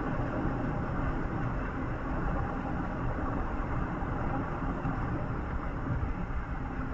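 Steady rumble of a road vehicle in motion: engine drone and tyre and road noise heard from inside the vehicle.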